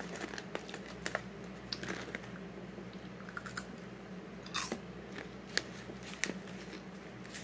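Crunchy coated popcorn being chewed, with scattered crackles and clicks from a clear plastic zip-top bag being handled; a few louder clicks come about two-thirds of the way through.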